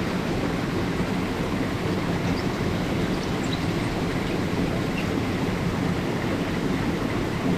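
Mountain stream water rushing steadily over rocks, an even noise that holds a constant level throughout.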